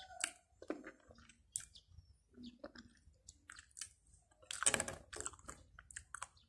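Faint wet chewing and lip smacks of a person eating soft, sticky fruit pulp, with a louder run of smacking a little past the middle.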